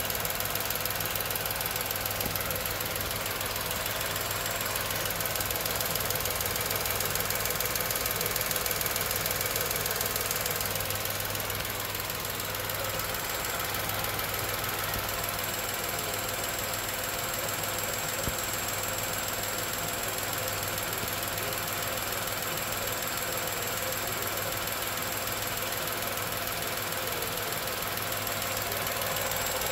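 Tata Nexon's 1.2-litre turbocharged three-cylinder petrol engine idling steadily with the air-conditioning switched off, heard close up under the open bonnet.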